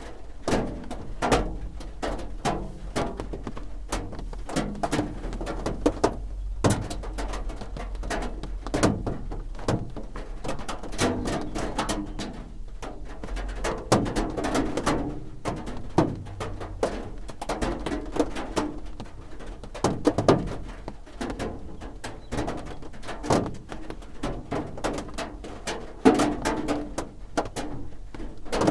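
Raindrops drumming on a roof: a dense, irregular patter of dull knocks, with heavier single drops landing louder every second or so.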